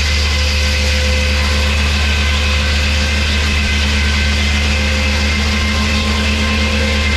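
An engine running steadily at constant speed, with a deep, unchanging hum.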